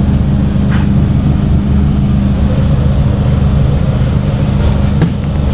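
Abra's engine idling at the landing, a steady low hum with a strong even tone that shifts slightly near the end.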